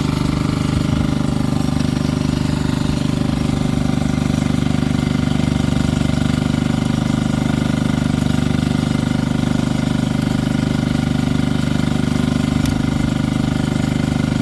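An engine or motor running steadily at constant speed, with a fast, even low pulsing.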